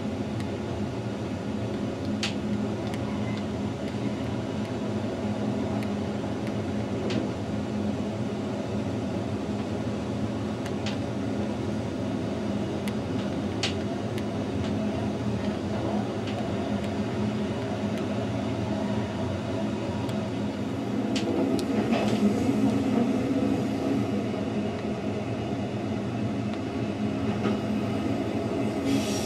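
Rhaetian Railway narrow-gauge electric train running, heard from inside at the rear: a steady rumble and hum with an occasional sharp click from the wheels. It grows louder for a few seconds past the middle.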